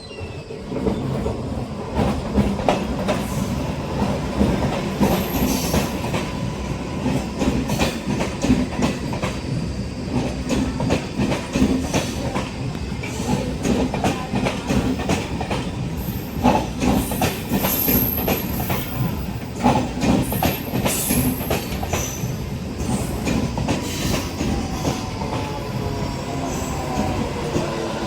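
Indian Railways train passing through at speed, a loud continuous rumble with rapid clickety-clack of wheels over rail joints and brief high-pitched wheel squeals now and then. It starts abruptly.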